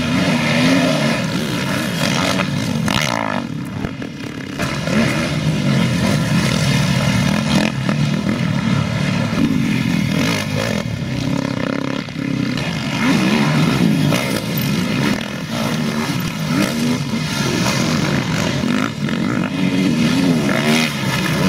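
Several motocross motorcycles racing, their engines revving up and dropping back again and again, with the pitches overlapping.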